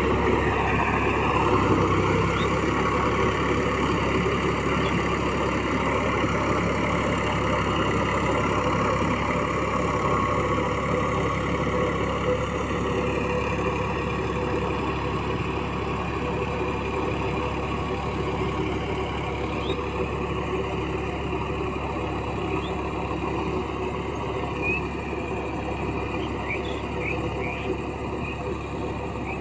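Massey Ferguson 9000 tractor's diesel engine running steadily under load while puddling a muddy field, slowly fading a little.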